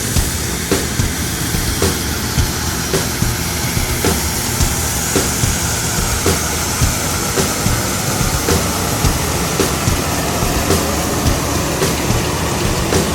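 Coal truck driving at high speed: steady engine and road noise, with a short regular knock about twice a second.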